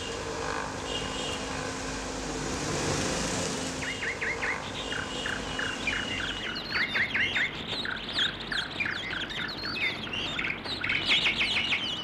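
Small birds chirping: many short, quick chirp notes in rapid succession, starting about four seconds in. Before and under the first of them, a steady rushing noise with a low hum, which fades out about six and a half seconds in.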